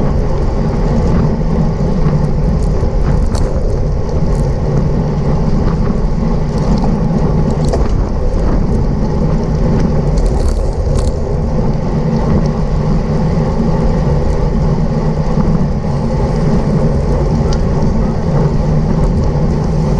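Steady wind rush over the microphone of a camera on a racing bicycle moving at speed, mixed with the hum of tyres on the road, and a few faint ticks here and there.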